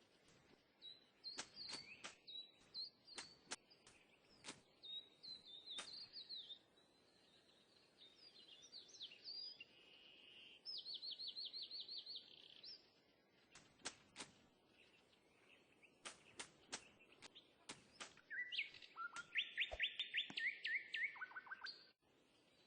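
Small birds chirping, with several fast trills, among scattered sharp clicks.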